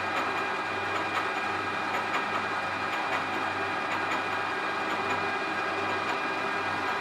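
A workshop machine running steadily, with a low hum that pulses a little more than once a second and light, regular ticking over it.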